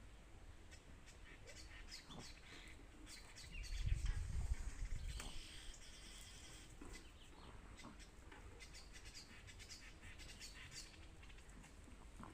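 Birds chirping in many short, high calls, scattered throughout. A brief low rumble about four seconds in.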